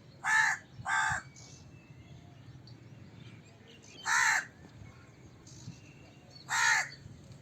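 Crow cawing: four loud, harsh caws, the first two in quick succession, then single caws about four seconds in and near the end.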